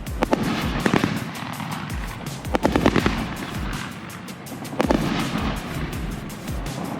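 Consumer fireworks going off in clusters of sharp bangs and crackles, loudest about one, three and five seconds in, over background music with a steady beat.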